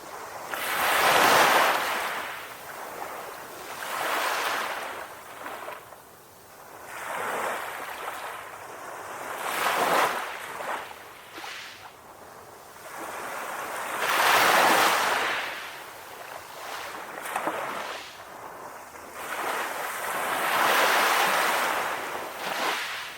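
Gentle ocean waves breaking and washing up a shore, each swell of surf rising and fading every few seconds, with five larger breakers and quieter wash between them.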